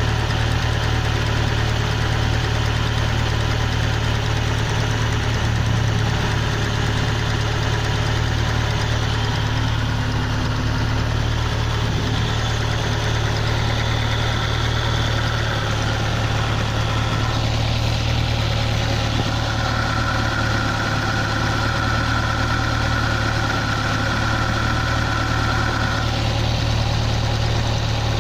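Car engine idling steadily after a cold start, with an abnormal noise that the owner places in the cylinders at the driver's-seat end. A steady high whine joins in about twenty seconds in and stops after about six seconds.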